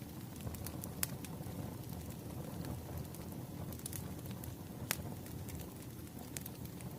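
Burning firewood crackling: a steady low rumble of flames with scattered sharp pops, the loudest about a second in and again near five seconds.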